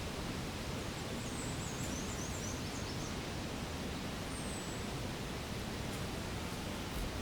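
Steady outdoor background hiss with a faint quick series of high chirps about a second in, and one more falling chirp a few seconds later.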